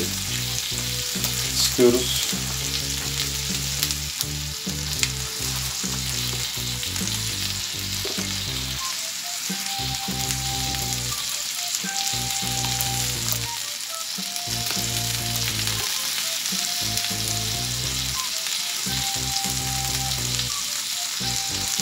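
Sliced salami and sausages sizzling as they fry on the hot plates of an electric contact grill, a steady hiss.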